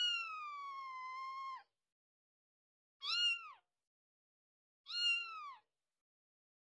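A cat meowing three times: one long drawn-out meow, then two short meows about three and five seconds in.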